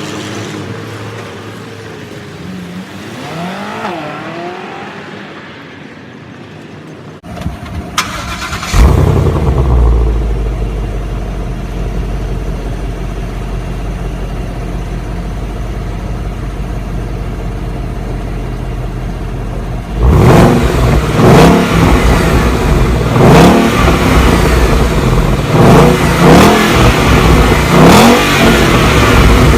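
A car engine starts about eight seconds in and settles into a steady low idle. From about twenty seconds it is revved again and again, each rev rising and falling quickly.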